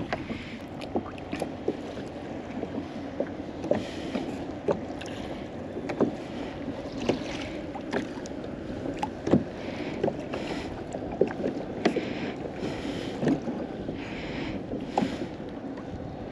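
Water lapping and splashing against a kayak's hull in soft swells about once a second, with scattered small knocks on the hull and a steady wind rumble underneath.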